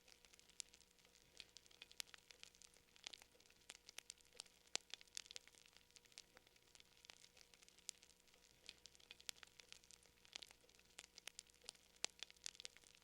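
Wood fire crackling softly, with irregular small pops and snaps over a faint steady hum.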